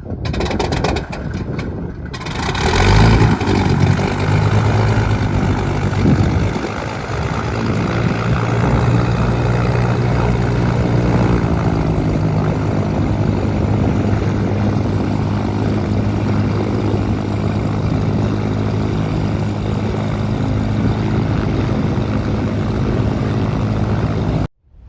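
Piston engine of a Cessna 310Q (a Teledyne Continental TSIO-520-B) running with its propeller turning. It grows louder about two to three seconds in, then runs steadily until it cuts off suddenly near the end.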